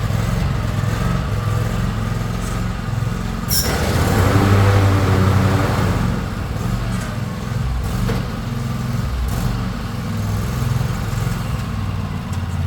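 Tractor engine running under load as the tractor is driven up onto a trailer. About three and a half seconds in there is a sharp clank, and the engine works louder for a couple of seconds after it.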